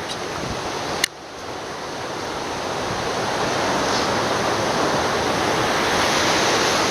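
Steady rushing of water, like a river or waterfall, growing slowly louder, with a sharp click about a second in.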